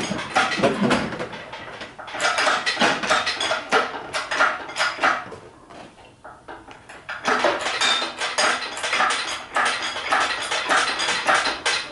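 Metal tools and parts clinking and clattering in irregular bursts of sharp clicks, with a short lull about halfway through.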